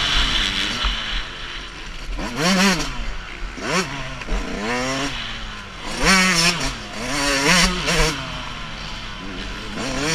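Two-stroke motocross bike's engine at race pace, its revs climbing and dropping back about six times as the rider works the throttle and gears.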